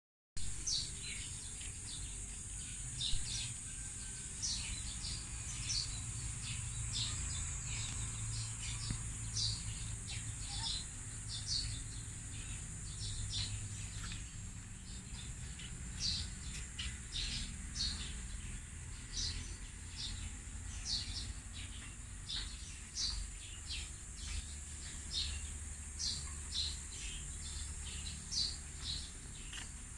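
Small birds chirping in quick, short repeated notes, over a steady high-pitched hiss and a low rumble.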